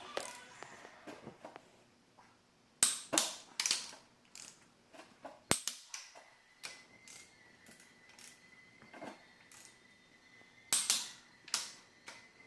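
Sharp metallic clicks and knocks from hand tools on engine parts, coming in short clusters with quiet gaps between them. A faint steady high tone hums in the background from about halfway through.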